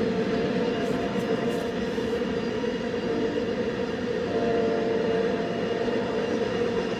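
Freight train of ballast hopper cars and conveyor cars rolling past: a steady rumble of steel wheels on rail with a steady droning tone, heard from inside a car.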